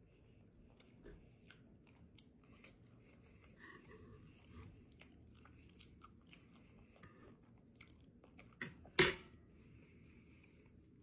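Close-up mouth sounds of someone chewing a forkful of fried buffalo catfish: soft wet chewing with many small clicks and smacks. A louder sharp click comes about nine seconds in, just after a smaller one.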